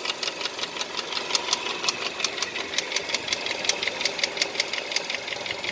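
Hyundai Accent 1.6 engine idling with a sharp, regular knock, about four to five strikes a second.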